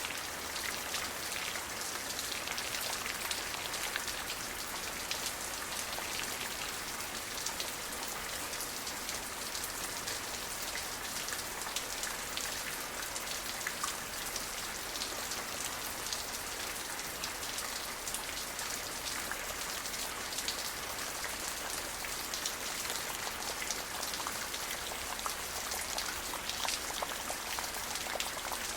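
Steady rain falling, a dense patter of drops ticking on a surface.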